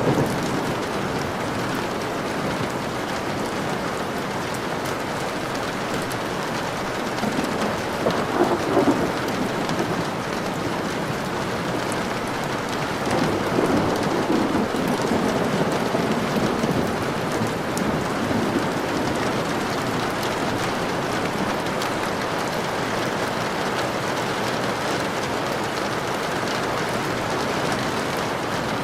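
Steady rain with thunder rumbling: a short swell about eight seconds in and a longer roll from about thirteen to eighteen seconds in.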